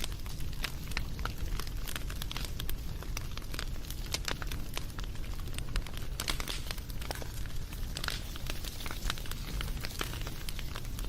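Wood fire burning with irregular crackles and pops over a steady low rumble and hiss.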